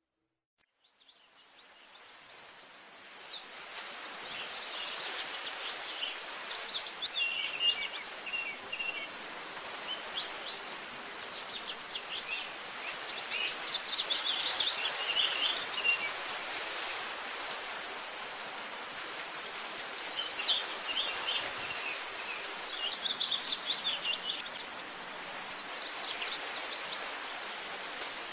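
Birds chirping in short, scattered calls over a steady outdoor hiss, fading in from silence over the first few seconds.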